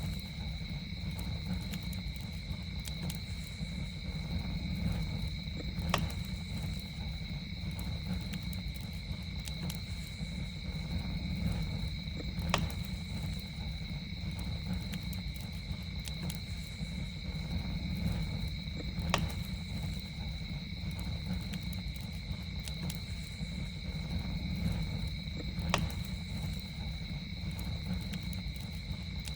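Campfire burning: a steady low rumble with four sharp crackling pops, evenly spaced about six and a half seconds apart, over a continuous high-pitched drone of night insects.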